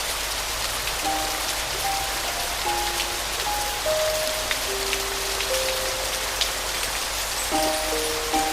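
Steady rain with distinct drop hits, mixed with a soft piano playing a slow melody of single held notes that enters about a second in and thickens near the end.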